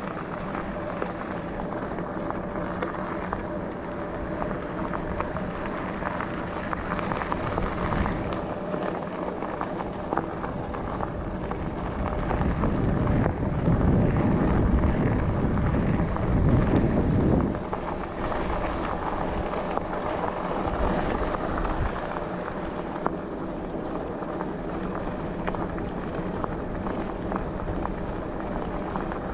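Bicycle tyres rolling over a forest track, with a steady hum underneath and wind on the microphone. The rolling noise gets louder and rougher for about five seconds around the middle.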